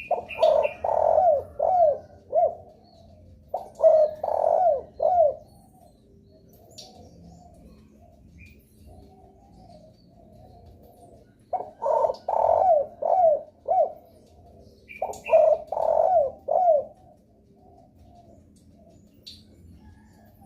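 Spotted dove (derkuku) cooing: four loud phrases of several coos each, two near the start and two in the second half, with softer cooing between them. A few short high chirps come in near the start and again in the second half.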